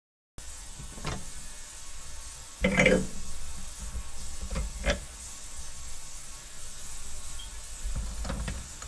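A few scattered knocks, the loudest about three seconds in, over a low steady hum.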